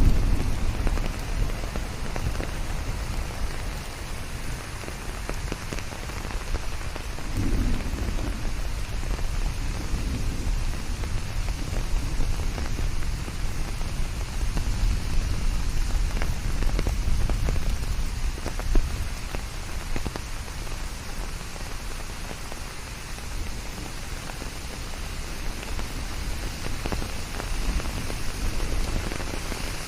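Steady rain falling, with many individual drops ticking over a low thunder rumble that dies away in the first second.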